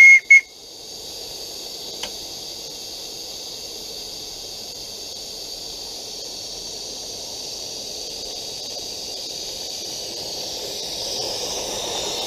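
Two short, loud toots of a whistle, then a steady hiss of steam from a coal-fired Roundhouse Lady Anne live-steam locomotive that is in steam and ready to run. The hiss grows a little near the end.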